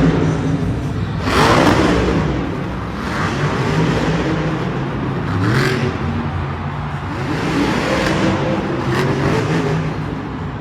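Monster truck engines revving hard, the pitch rising and falling again and again, with three brief, louder bursts of noise spread through.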